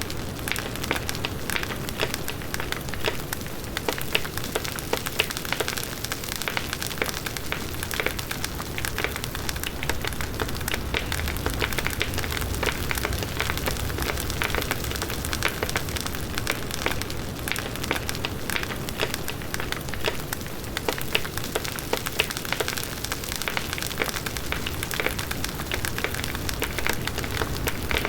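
Large wood bonfire burning: dense, irregular crackling and popping of the burning wood over the steady rush of the flames.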